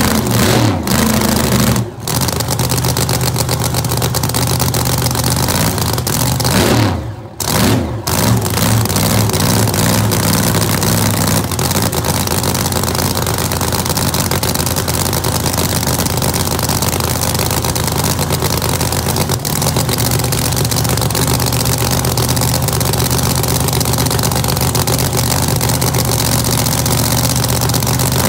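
Holden HG drag car's race engine running steadily while parked, loud, with a dip about two seconds in and a short drop-out about seven seconds in.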